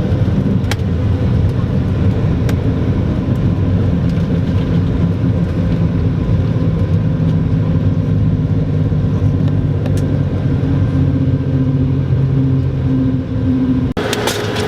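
Airbus A220-300 cabin noise: a steady low rumble of the Pratt & Whitney PW1500G geared turbofan engines and airflow, heard from inside the cabin, with a few faint clicks. The sound changes abruptly near the end.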